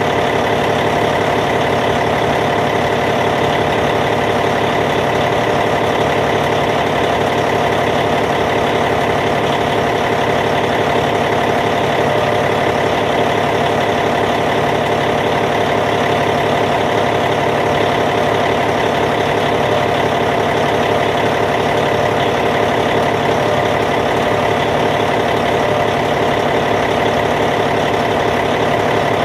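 Caterpillar C15 inline-six diesel engine of a D8T dozer idling, steady and unchanging.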